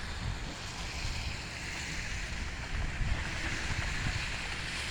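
Wind buffeting the microphone, an irregular low rumble over a steady rushing noise.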